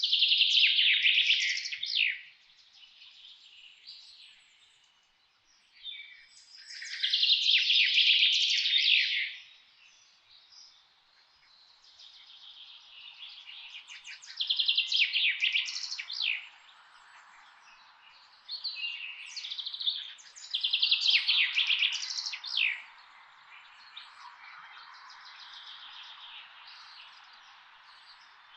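Songbirds singing in loud phrases of about two seconds each, rapid trilling runs high in pitch, four or five phrases with softer chirps between. A faint, steady rush sits underneath from about halfway on.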